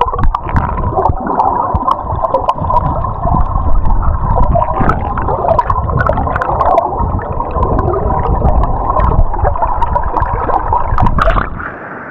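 River current heard underwater through a submerged action camera: a loud, muffled rushing rumble with many small clicks and gurgles, cutting off near the end as the camera comes back out of the water.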